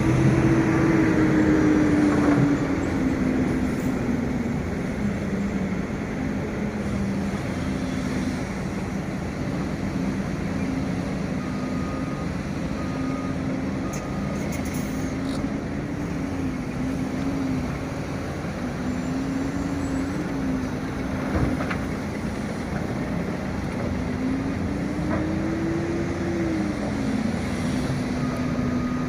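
Excavator's diesel engine running under load, its pitch rising and falling repeatedly as the machine works, louder in the first couple of seconds. There is one sharp knock partway through.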